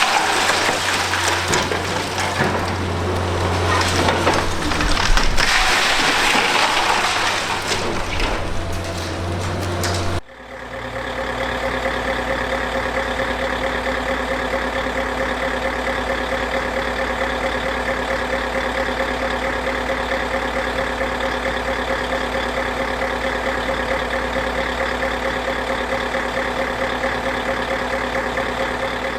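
Demolition by a Liebherr R 960 high-reach excavator: the diesel engine runs under a dense noise of concrete breaking and rubble falling. About ten seconds in the sound cuts abruptly to a steady diesel engine idling at an even pitch.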